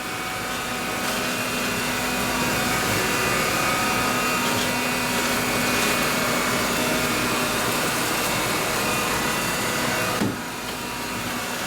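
Cordless stick vacuum with a motorized beater brush running on carpet along a wall edge, a steady motor whir with a dip in loudness about ten seconds in.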